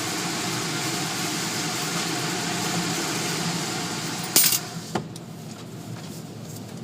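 Steady noise of a car idling with its surroundings, then a sharp click about four and a half seconds in and a second click half a second later, after which the noise is clearly quieter.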